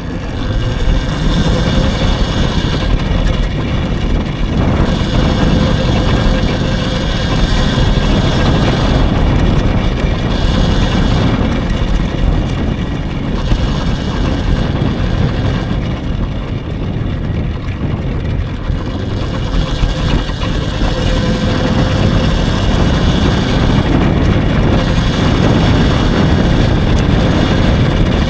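Electric dirt bike being ridden: steady rumbling wind and road noise on the microphone, with no engine sound, only faint steady tones over the rumble.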